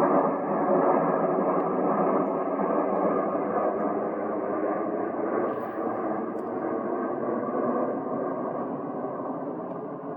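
Boeing 787-8 Dreamliner's turbofan engines on approach, a steady rushing jet noise with faint whining tones in it, slowly fading.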